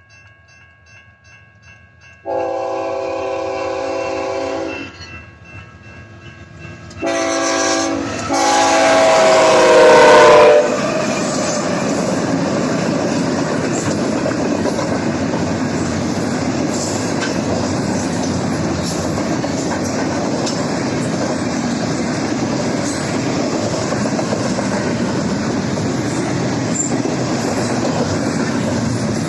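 A doublestack intermodal freight train passes a grade crossing. A crossing bell rings faintly and evenly, then the lead locomotive's multi-chime air horn sounds two blasts, the second one dropping in pitch as the locomotive goes by. The steady rumble and clickety-clack of the stack cars rolling past follows.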